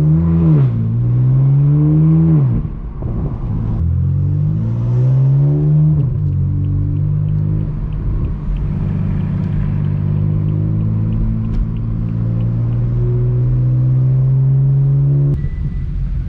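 Straight-piped BMW M4 F82's twin-turbo inline-six exhaust, heard from inside the car. It revs up and drops back several times in the first six seconds as it accelerates and shifts, then holds a steady cruising drone, changing pitch again near the end.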